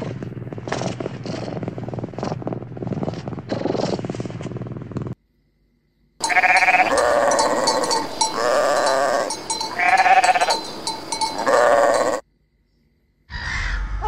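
About five seconds of scratchy noise with clicks, a short silence, then a sheep bleating loudly several times over about six seconds.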